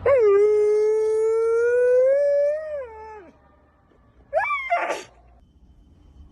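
Dog howling: one long howl of about three seconds that holds steady, rises slightly, then drops off. A second, short rising call follows about four seconds in.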